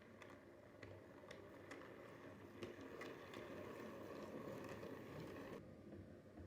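Model railway locomotive running along the track: a low motor hum with irregular clicks as the wheels pass over rail joints. The higher sounds drop away about five and a half seconds in.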